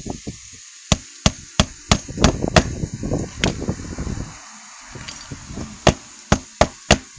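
Hammer driving roofing nails through asphalt shingles into the roof deck: a run of about six sharp strikes roughly three a second, a lone strike, then four more strikes near the end.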